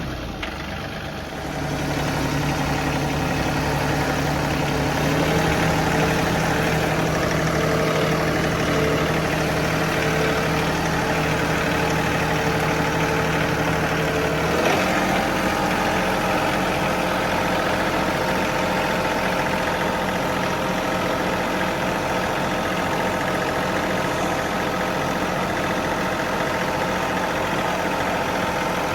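John Deere 3038E compact tractor's three-cylinder diesel engine running steadily, changing speed about halfway through.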